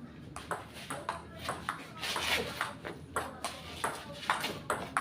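Table tennis rally: the celluloid ball clicking back and forth off the rackets and the table in quick sharp ticks, about three a second.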